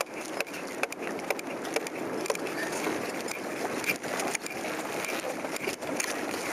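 Water splashing and lapping around a small boat, a steady noise with many small knocks and clicks.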